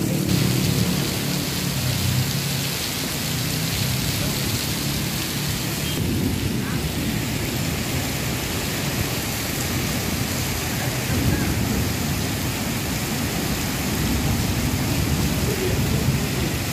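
Heavy rain in a storm with strong wind: a steady loud rushing noise with a low rumble underneath.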